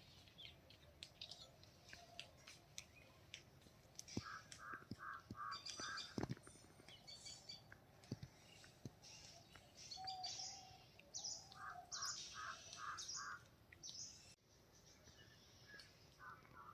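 Birds chirping and calling faintly, with a repeated run of about five evenly spaced notes heard twice and starting again near the end.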